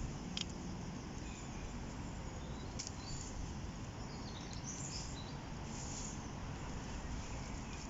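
Steady low outdoor rumble with a few short bird chirps in the middle, and two sharp clicks in the first three seconds.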